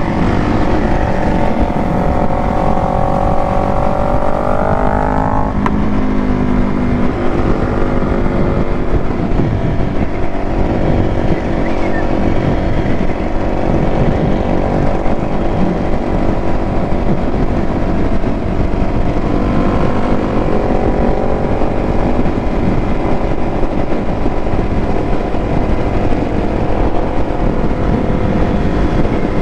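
Motorcycle engine under way on the road, rising in pitch as it accelerates through a gear for about five seconds and dropping suddenly at an upshift. It then runs at a steady cruise and climbs again about twenty seconds in.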